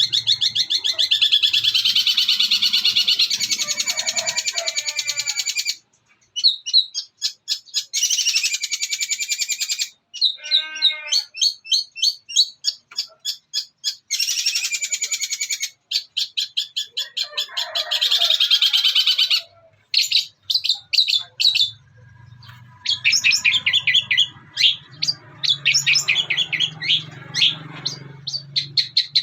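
Long-tailed shrike singing a fast chattering song of mimicked calls. It comes in long rapid trills broken by short pauses, with a falling run of notes a little before the middle.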